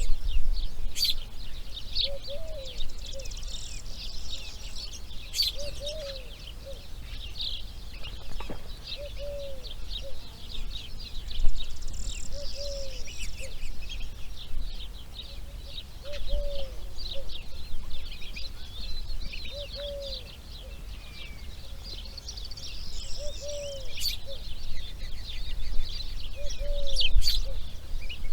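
Wild birdsong: a dense chorus of high, rapid chirping from small birds, with a soft low hooting note repeated about every two seconds, sometimes doubled.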